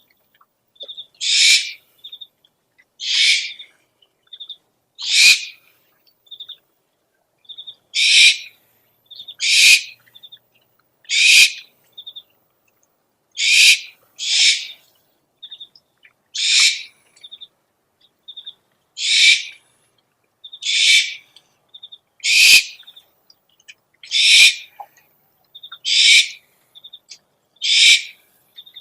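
Owl lure recording: an owl giving a regular series of harsh, hissy screech calls about half a second long, one every second and a half or so, with short high pips in between.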